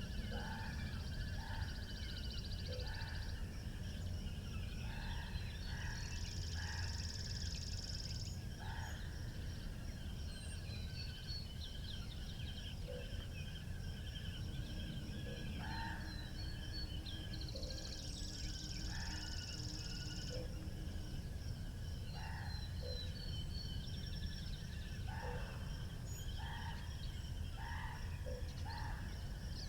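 Spring country ambience: a steady low wind rumble with small birds chirping on and off throughout. Twice, a high buzzing trill runs for about two seconds.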